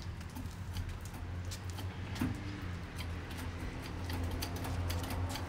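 Faint, irregular clicks and ticks from a hydraulic cab-tilt hand pump being worked to raise a truck cab, with a small knock about two seconds in, over a steady low hum.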